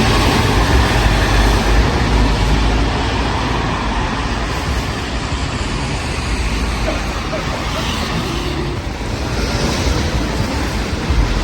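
City street traffic: cars passing with a steady rush of tyre and engine noise and a low rumble. It is loudest at the start, as a vehicle goes by close, and slowly eases over the next several seconds.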